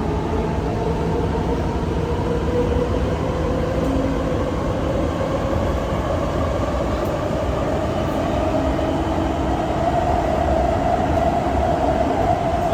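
SMRT Kawasaki–Kinki Sharyo C151 metro train running between stations, heard from inside the car: a steady rumble of wheels and running gear, with a traction-motor whine that slowly rises in pitch as the train gathers speed.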